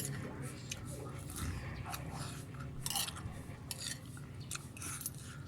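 Spoon and fork clicking and scraping against a plate while eating, a few sharp clicks scattered through, over a low steady hum.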